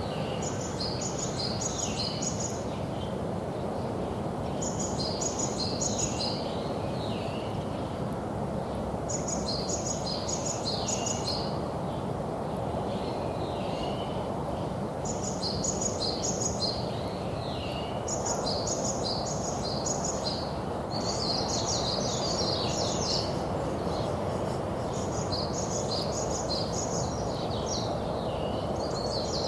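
A songbird singing the same short, high phrase over and over, roughly every three to four seconds, each phrase a quick run of repeated notes that drops in pitch at the end. A steady low background rumble runs underneath.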